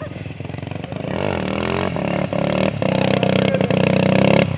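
Motorcycle engine revving during stunt riding, its pitch rising and falling. It grows louder over the first few seconds and dips briefly near the end.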